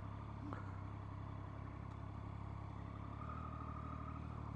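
Triumph Street Triple R's three-cylinder engine running at steady speed on its stock exhaust, picked up faintly under the rider's helmet; the engine note shifts slightly about three seconds in.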